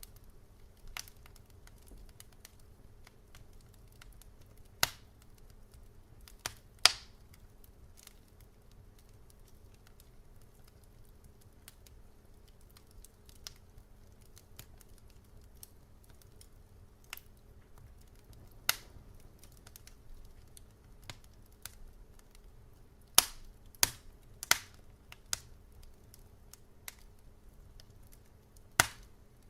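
Wood fire crackling in a fireplace: a quiet bed of fine crackle broken at irregular intervals by sharp single pops, with a cluster of several pops a little past two-thirds of the way through. A faint steady low hum sits underneath.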